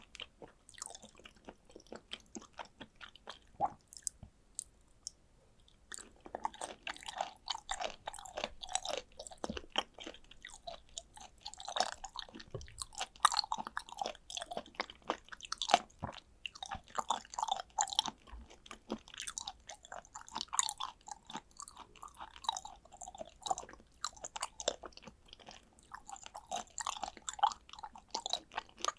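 A person chewing raw tuna sashimi, with close mouth sounds: a few scattered clicks at first, then from about six seconds in a dense, uneven run of short chewing and smacking clicks.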